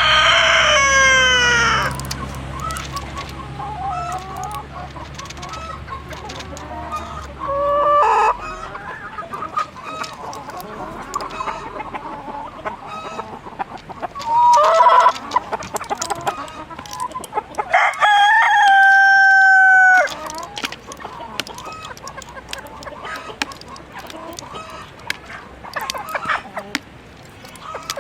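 Roosters crowing about four times: one at the start, shorter crows a third and halfway in, and a long held crow about two-thirds in. Hens cluck throughout.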